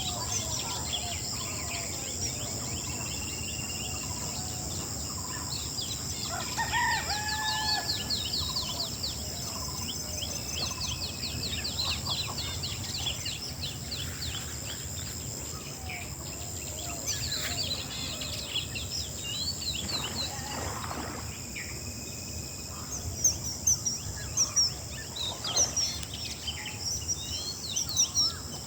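Morning birdsong: many small birds chirping and trilling, with a few lower calls from chickens among them. A steady high hiss runs underneath.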